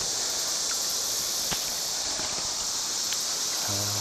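Steady chorus of insects, a continuous high buzz, with a few faint clicks of handling.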